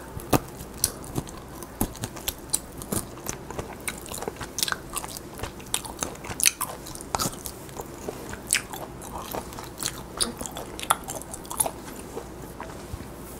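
Close-miked biting and chewing of grilled lamb rib meat being gnawed off the bone: a quick run of sharp mouth clicks and smacks that thins out near the end.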